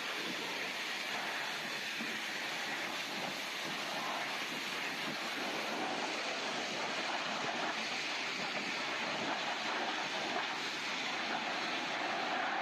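Steady rushing noise with no distinct tone, holding an even level throughout.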